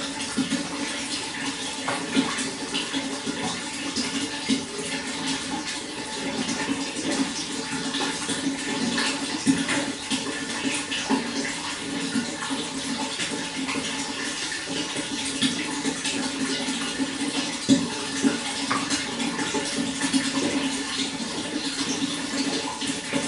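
Running water flowing steadily, with many small splashes and gurgles scattered through it.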